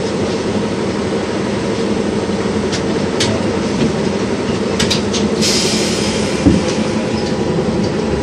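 LVS-86K articulated tram running along the track, heard from inside the car: a steady drone of motors and wheels, with a few sharp clicks and a brief hiss about five and a half seconds in.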